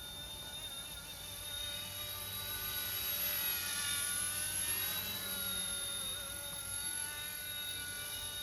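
Small RC-ERA C128 radio-controlled helicopter in flight: a steady electric whine of motor and rotor. It grows louder from about two seconds in, peaks around four to five seconds with the pitch dipping slightly, as if it passes close, then eases back.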